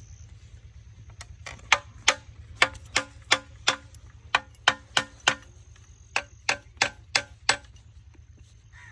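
Repeated sharp metallic strikes on engine parts during a piston strip-down, about fifteen ringing taps at roughly three a second, starting about a second and a half in and stopping shortly before the end.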